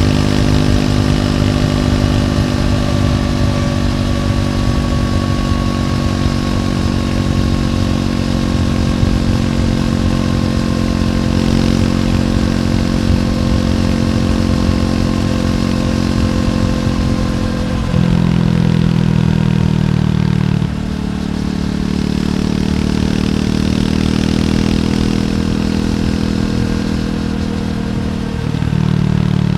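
Triumph Scrambler 400X's single-cylinder engine running through its stock exhaust while riding. Its note slowly falls for most of the stretch, then steps abruptly louder and lower about two-thirds of the way through, and shifts twice more near the end.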